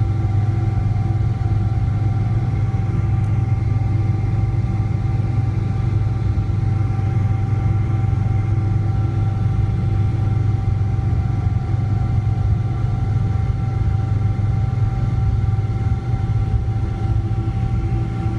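Steady drone of a Boeing 777-200ER's Pratt & Whitney PW4090 turbofans, heard from inside the cabin: a deep rumble with a few steady tones above it, holding at one pitch and level throughout.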